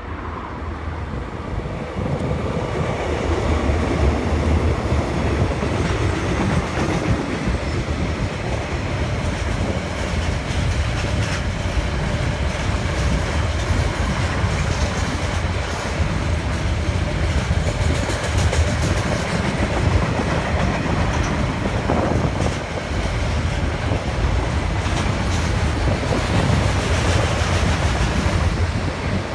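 A train running along the track: a steady, loud rumble of engine and wheels on rail, with clicks from the wheels over the rail joints.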